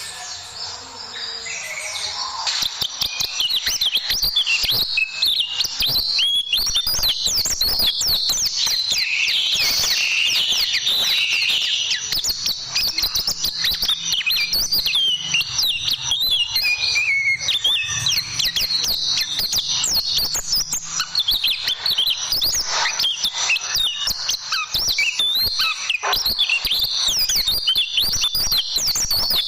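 White-eye (pleci) song: a fast, unbroken run of high chirps and trills, getting louder about two seconds in.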